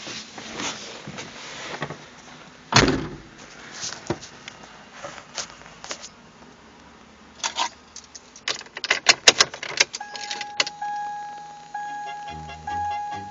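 Clicks and knocks of handling in a car, with one heavy thump about three seconds in and a quick run of clicks near the end, like keys. It is followed by a repeating electronic warning chime in the last few seconds. No engine cranking or running is heard.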